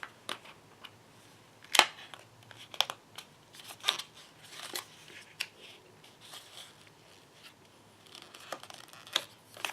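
Packaging being handled while a cardboard or plastic flap is pried open: scattered clicks and taps with short rustles, the sharpest click about two seconds in.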